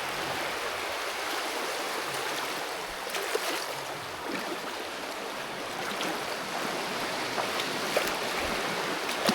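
Steady rushing and washing of water, with a few faint small splashes.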